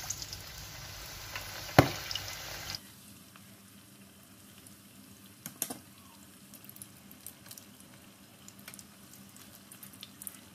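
Battered spinach-leaf fritters frying in hot oil in a pan, a steady sizzle with scattered crackles and pops. A sharp click about two seconds in is the loudest sound, and a little later the sizzle drops suddenly to a quieter level.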